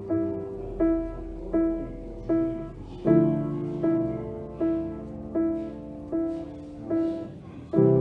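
Background piano music: a slow, gentle pattern of single struck notes about every three-quarters of a second over held low chords, with the chord changing about three seconds in and again near the end.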